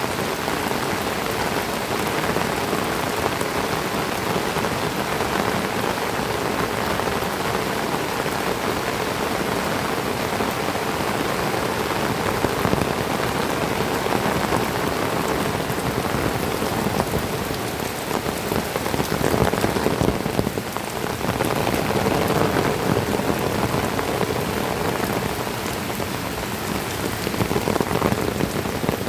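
Heavy tropical rain pouring steadily, a dense, even hiss and patter of drops.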